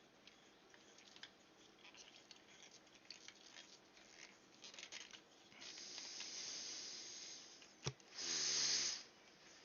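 Compressor fittings being handled and screwed together by hand: scattered small clicks and scrapes, a soft rustling hiss for a couple of seconds, a sharp click, then a short rasping scrape near the end.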